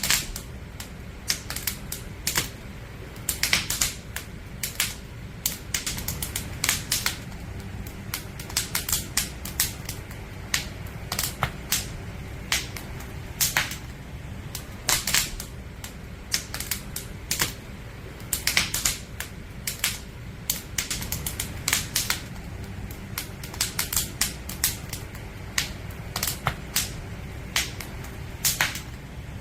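Firewood burning in a campfire, crackling and popping in irregular sharp snaps, sometimes several in quick succession, over a steady low rumble of the fire.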